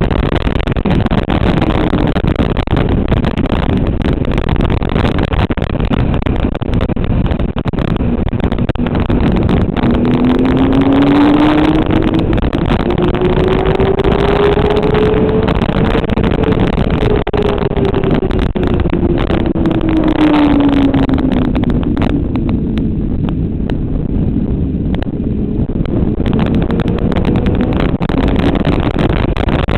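Motorcycle engine running hard at track speed. Its pitch climbs steadily for several seconds, falls away over about five seconds around the middle, then rises again near the end.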